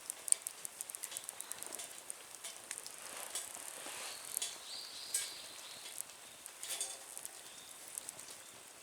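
Wood fire in a small Nature Stove crackling, with irregular sharp pops and snaps over a faint hiss.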